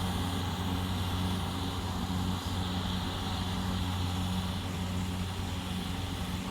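Diesel engine of a rice-field farm machine running steadily, a constant low hum that neither rises nor falls.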